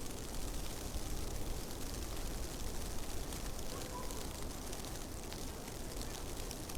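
Blizzard wind blowing steadily, with a low rumble and scattered faint ticks.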